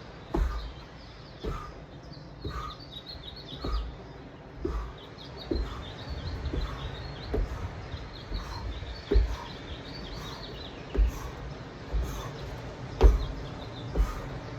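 Dull thuds about once a second, the hands and feet landing on the ground during a crab walk, with birds chirping in the background through much of it.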